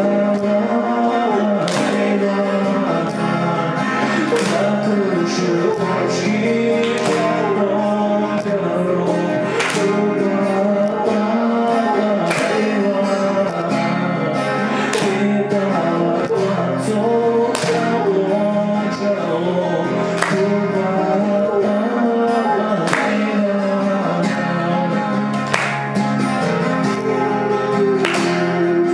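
Acoustic guitar strummed in a steady rhythm while a male voice sings a Belarusian folk song.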